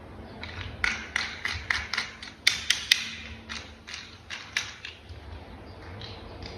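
Hard plastic toy-vehicle parts being handled and fitted together: a run of about a dozen sharp clicks and taps, loudest a little before the middle, stopping about two-thirds of the way through.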